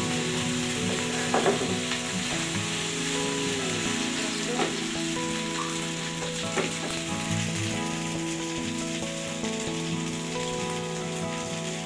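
Food sizzling as it fries in a pan and is stirred, with about three knocks of a utensil against the pan.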